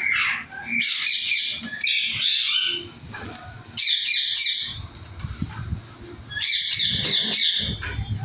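Caged parrots squawking in harsh, rapid bouts of about a second each, three times, with a low rumble underneath in the second half.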